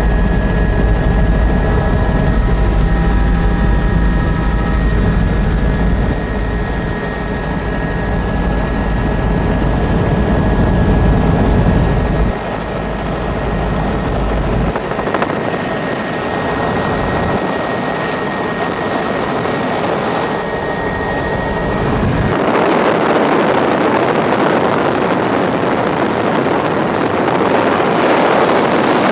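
Tour helicopter's turbine engine and rotor running: a steady high whine over a heavy low rotor beat. About two-thirds of the way through, the whine and the low beat drop away and a loud, even rushing noise takes over.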